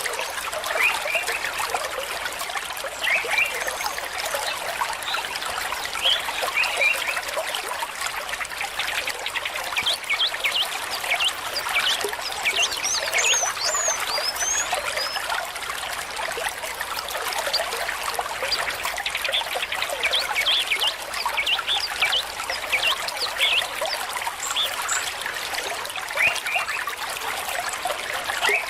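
A small stream trickling and gurgling steadily, with many quick bubbling plinks over the rush of water.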